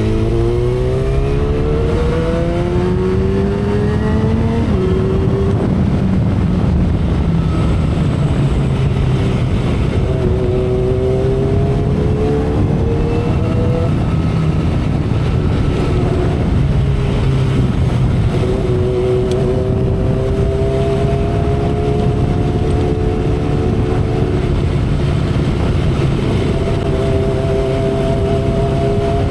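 2012 Kawasaki Ninja ZX-10R's inline-four engine pulling hard under acceleration, its pitch climbing and then dropping sharply at an upshift about four and a half seconds in. It then climbs more gently at speed, with a few dips. Heavy wind and road noise blow across the camera microphone throughout.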